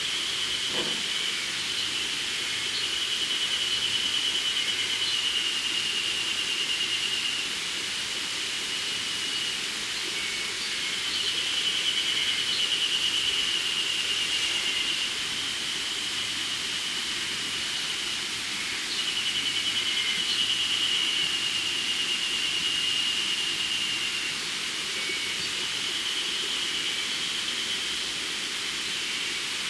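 A chorus of spring cicadas buzzing: a steady, high-pitched, pulsing drone that swells and fades in phrases several seconds long.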